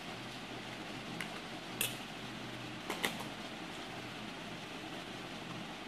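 A few light clicks and taps of small plastic Play-Doh moulds being handled, four in the first half, over a steady background hum like a fan.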